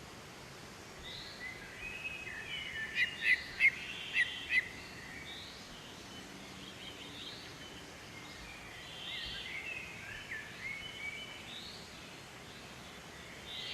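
Several wild birds singing and calling over a steady background hiss, with a run of about five loud, sharp notes a few seconds in and softer chirps and short songs throughout.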